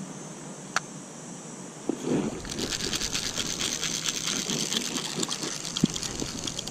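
Fishing reel being cranked: a fast, even rattling whir that starts about two and a half seconds in, after a single sharp click and a thump.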